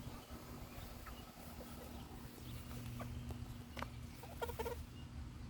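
Domestic chickens clucking softly with short calls, a few louder calls in quick succession about four and a half seconds in.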